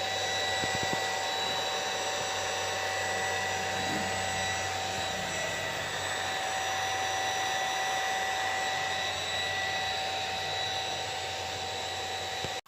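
Electric water pump running steadily, a motor whine made of several fixed high tones over a low hum, with no change in speed.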